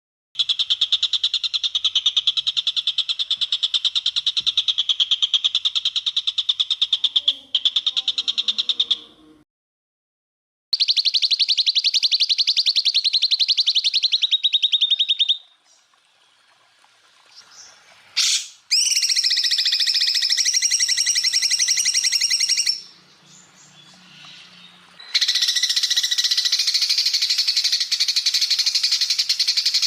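Cucak ijo (green leafbird) singing long, very rapid trills ('tembakan'), high-pitched, in four runs of about four to nine seconds each that start and stop abruptly with short gaps between.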